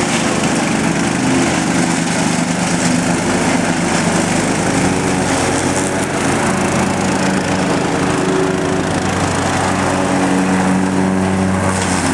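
Lawn mower engine running steadily under load, its all-weather blade mulching wet leaves and powdering them up.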